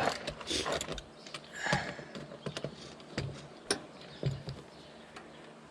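Irregular metallic clicks and knocks of a wrench working the wheel nuts on a tractor wheel as they are tightened.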